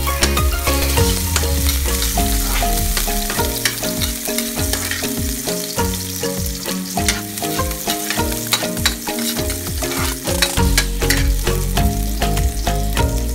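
Diced onion and garlic sizzling in hot oil in a wok, with a spatula scraping and clicking against the pan as they are stirred.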